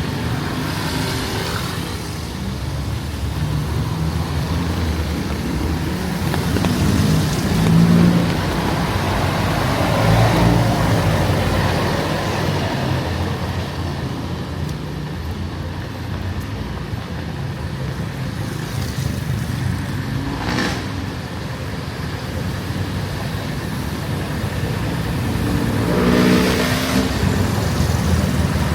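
Street traffic: motor vehicles passing close by with engines running over a steady low rumble, swelling as vehicles pass about eight and ten seconds in and again near the end.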